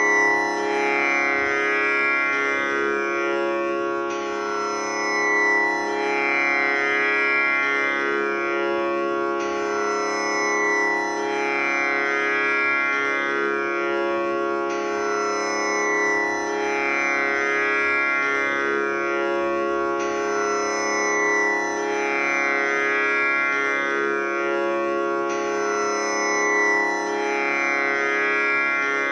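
Tanpura drone tuned to C#, its strings plucked in a continuous cycle that repeats about every five seconds, with bright buzzing overtones that ring on between plucks.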